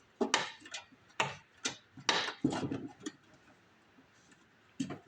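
Hand tools clicking, knocking and scraping on the snowblower's metal parts while the old, hardened fuel line is worked off. Several sharp ticks, a longer scrape about two seconds in, a pause of over a second, then more clatter near the end.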